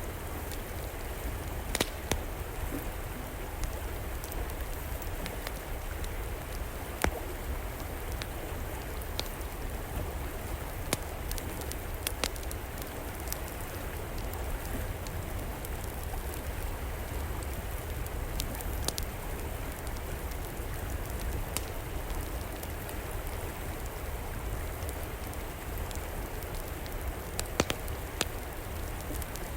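Steady rush of a flowing river, with a wood fire crackling over it in occasional sharp pops, a few seconds apart.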